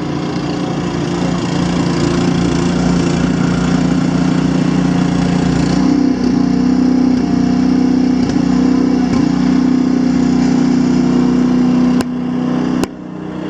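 A 25-horsepower snowblower engine running steadily under load while it works through deep, packed snow, its pitch stepping up about six seconds in. Two sharp clicks near the end.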